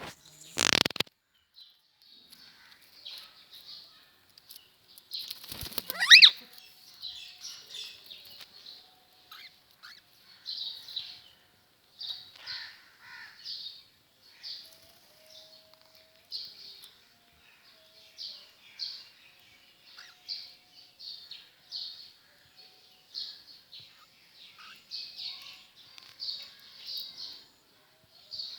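African grey parrot making agitated calls: a loud screech with a rising pitch about six seconds in, then a long string of short, hissy chirps, a few each second. A sharp burst of noise about half a second in sounds like a wing flap or a knock.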